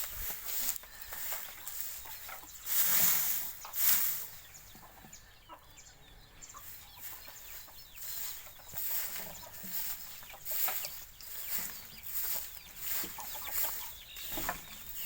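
Chickens clucking, amid scattered short rustling noises, with two louder noisy bursts about three and four seconds in.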